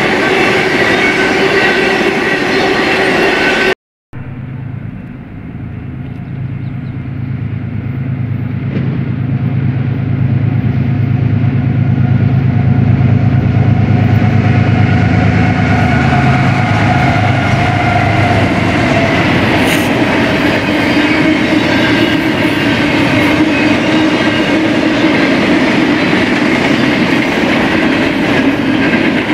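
Freight train cars rolling past with steady wheel-on-rail noise. After an abrupt cut, the diesel locomotives of a BNSF freight train approach with a low steady engine drone, growing louder. The cars then follow, rolling by with wheel-and-rail clatter.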